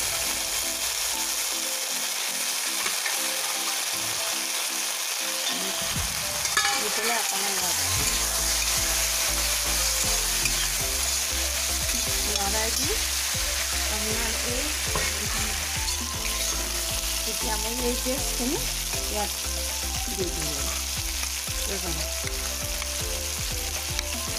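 Drumstick (moringa) pieces sizzling in hot mustard oil in a karahi, stirred with a spatula that scrapes against the pan.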